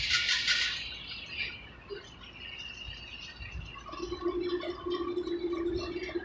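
Slow freight train rolling past, its wheels squealing on the rails: a harsh, scraping high squeal fades out about half a second in, and a steadier, lower squeal sets in about four seconds in.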